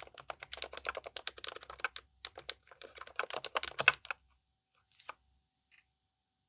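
Fast typing on a Keychron K10 Pro SE mechanical keyboard with pre-lubed Keychron K Pro silent red switches: a dense run of keystrokes with a brief pause about two seconds in, stopping about four seconds in, followed by a couple of single key presses.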